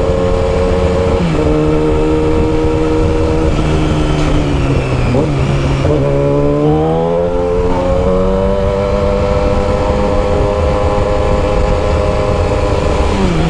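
Yamaha R6 inline-four sport bike running through a short custom exhaust while riding, a loud, crisp note. The engine pitch drops about a second in and sags slowly, then rises again around six seconds in and holds steady.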